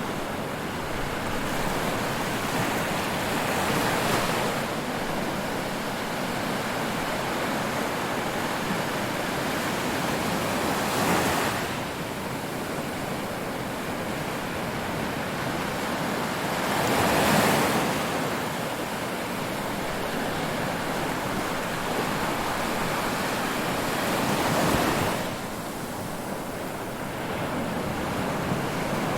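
Ocean surf: a steady wash of waves with four louder breakers crashing in turn, one about every six to seven seconds.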